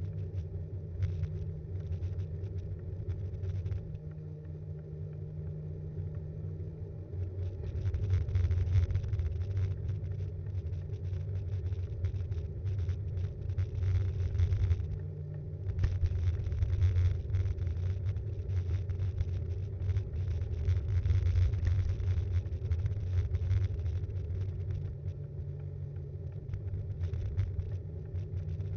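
Ride noise picked up by an action camera mounted on a Btwin Rockrider 5.1 mountain bike: a steady low rumble of tyres and frame vibration with a constant rattle. It grows louder and rougher for long stretches in the middle, with a brief easing about halfway through.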